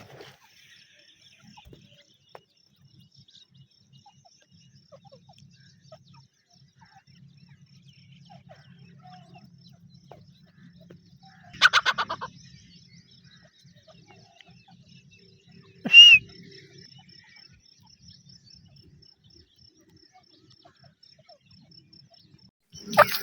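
Two short calls from a grey francolin (teetar): a quick rattle of notes about halfway through, then a single sharp call about four seconds later. A faint steady high tone runs underneath, and louder calling begins right at the end.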